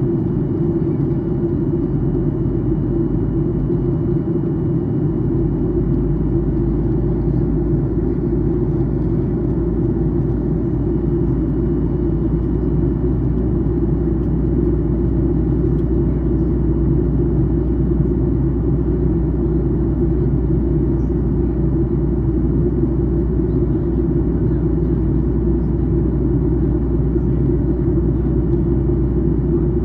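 Steady cabin drone of a Boeing 737-800 during descent: CFM56-7B engine noise and airflow, heaviest in the low range. A deeper hum steadies about five seconds in.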